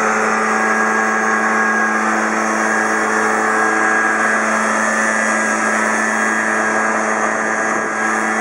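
Kawasaki backpack leaf blower running steadily at high throttle: a constant engine hum under a loud rush of air from the blower tube.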